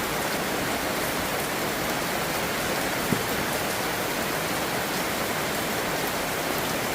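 Steady heavy rain falling and pattering on surfaces, with one small knock about three seconds in.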